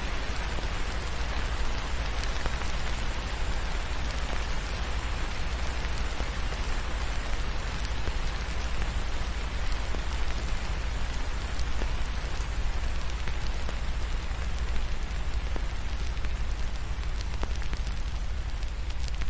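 Steady rain falling on a surface: an even hiss with scattered small ticks of drops.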